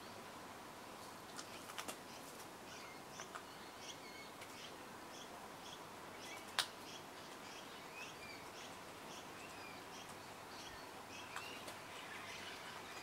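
A bird chirping: a long run of short high chirps, about three a second. A few sharp clicks stand out, the loudest about halfway through.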